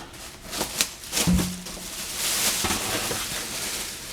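Handling of a pleated media filter: a few light knocks in the first second and a half, then a rustling, scraping hiss lasting a second or so.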